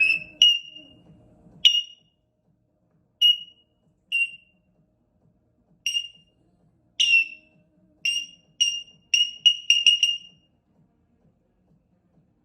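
African grey parrot giving a series of about a dozen short, high whistles, all on the same pitch, spaced unevenly and then coming quickly one after another near the end.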